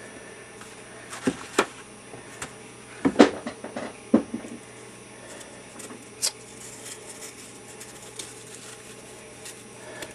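Scattered small taps, clicks and rustles of hands handling materials at a workbench, several in quick succession in the first few seconds and then sparser, over a steady low hum.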